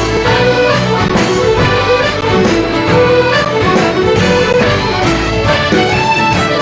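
Scottish traditional band music with accordion and fiddle playing a brisk tune over a steady beat.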